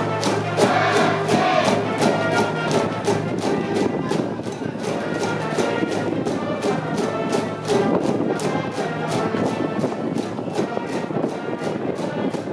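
School brass band playing a stadium cheering tune, brass over a fast, steady drum beat.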